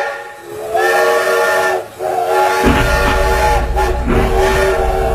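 Mak Itam steam locomotive's whistle blowing a chord of several notes in repeated blasts, three long ones after the tail of a first. About two and a half seconds in, a low, steady rumble of the running locomotive joins beneath the whistle.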